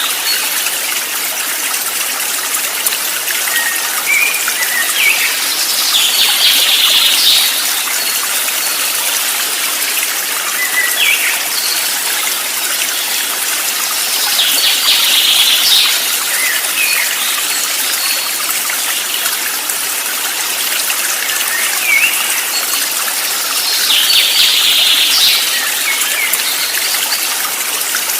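A stream of water running steadily, with birds chirping over it in short calls. The chirping swells into a brighter burst about every nine seconds.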